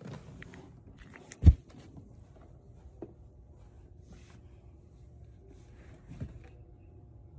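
A quiet room with a faint steady hum and a few scattered small clicks and taps. One sharp low thump about one and a half seconds in, and a softer knock near the end.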